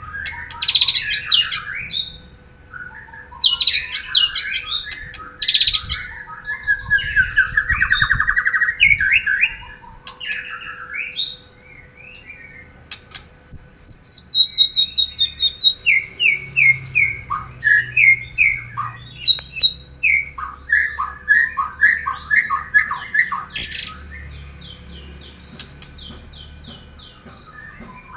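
White-rumped shama (murai batu) singing a varied song of whistles and chattering phrases, with a long run of sharp repeated notes, about two a second, in the middle. The song drops to softer phrases near the end.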